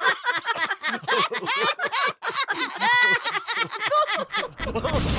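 A high-pitched voice chattering in quick, laughter-like syllables. A steady rushing noise comes in near the end.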